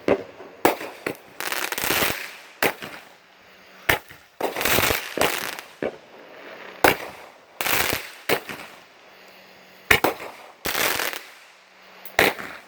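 Blue Dragon consumer firework going off: about a dozen sharp bangs at irregular intervals, several of them followed by a short burst of crackling.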